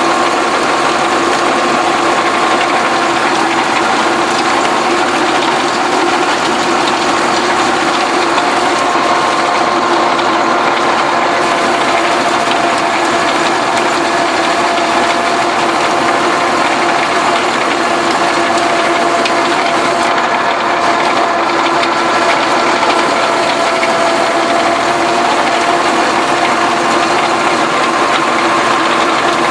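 Massey Ferguson tractor engine running steadily while working a field, with a dense mechanical rattle and a few steady tones that drift slightly in pitch.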